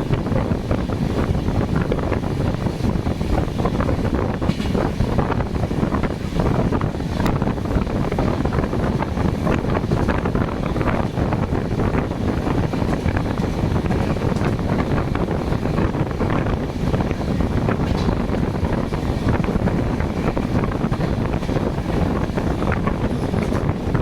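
Train running, a steady rumbling noise with many small clicks, with heavy wind buffeting the microphone.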